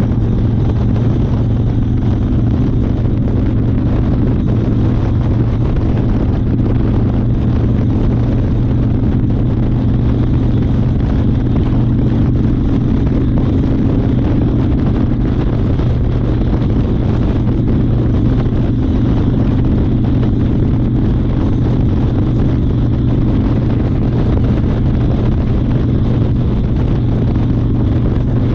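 1992 Harley-Davidson Fat Boy's 1340 cc Evolution V-twin running at a steady pitch, heard from the rider's chest with wind noise on the microphone.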